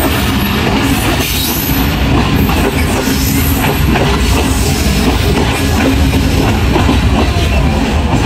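A moving passenger train's steady rumble, mixed with music.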